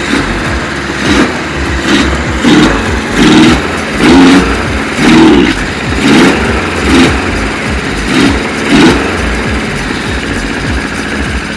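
Kawasaki KZ1000 air-cooled inline-four engine running, with the throttle blipped about ten times in a row, each rev rising and falling back within a second.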